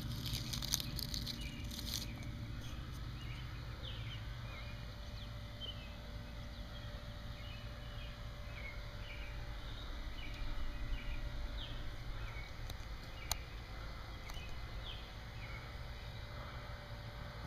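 Outdoor ambience with short, repeated bird chirps throughout over a low rumble, a brief rustle in the first two seconds and a single click near the end.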